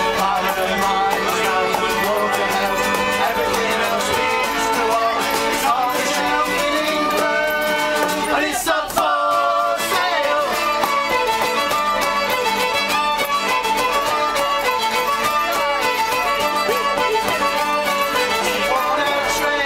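Live acoustic folk music: a tune played by a group of musicians, with a brief dip in loudness about halfway through.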